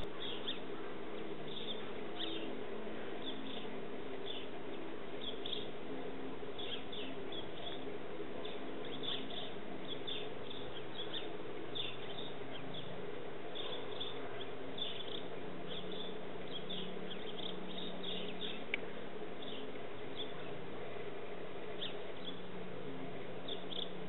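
Small birds chirping in many short, quick calls, over a steady low hum.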